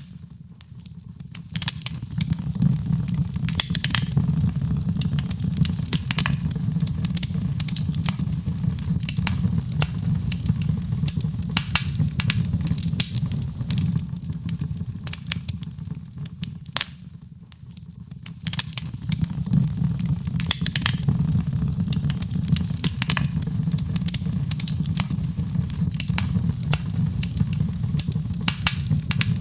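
Wood fire crackling and popping, with irregular sharp snaps over a steady low rumble of the flames. The fire briefly quietens twice.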